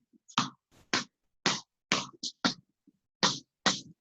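Basketball dribbled hard on a floor in a behind-the-back dribbling drill: a string of sharp bounces, about two a second, with silence between them.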